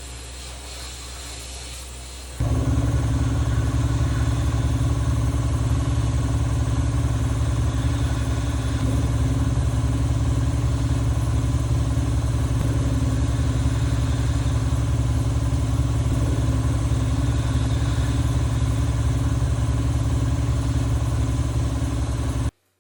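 Sandblasting equipment running: a steady hiss of blasting air over a loud, even machine hum. It starts abruptly about two seconds in, after a fainter hiss, and cuts off suddenly near the end.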